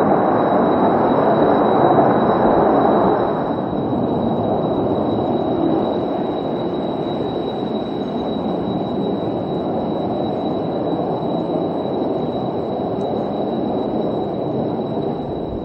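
Military jet engine roar, loud for the first few seconds, then easing slightly and holding steady.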